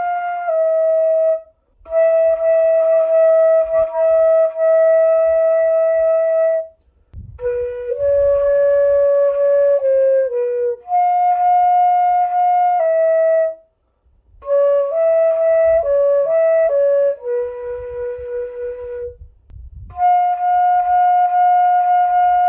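Sanjo daegeum, a Korean bamboo transverse flute, playing a slow solo melody of long held notes, with short breath pauses between phrases.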